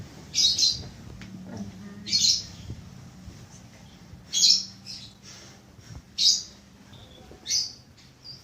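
A bird chirping: five short, high calls about two seconds apart, over a faint steady low hum.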